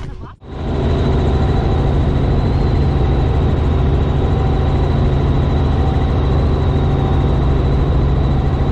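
Helicopter cabin noise in flight: a loud, steady deep drone with a thin high whine above it, coming in abruptly just after the start.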